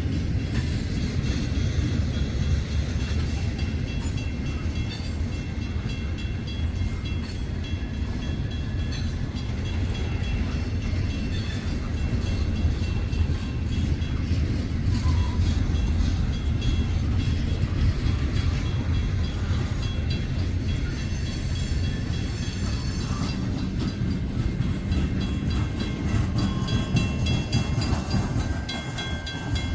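Freight train cars rolling past, a steady low rumble of wheels on rail, with faint high-pitched squealing near the end.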